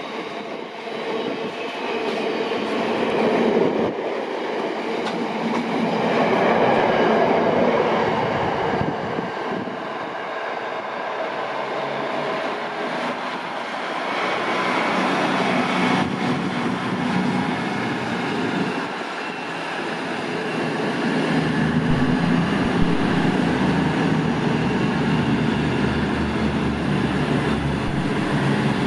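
Train running through the station on the rails, a continuous rumble and wheel noise that swells and eases; from about 21 seconds in, a deeper steady hum joins it.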